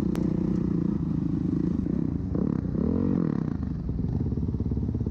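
Dirt bike engine running steadily, with a brief rise and fall in pitch about two and a half seconds in.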